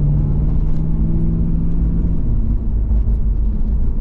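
1998 Pontiac Firebird Formula WS6's LS1 5.7-litre V8 pulling under way, a deep rumble through a muffler-delete single exhaust. The engine tone climbs slowly, then drops away a little over halfway through.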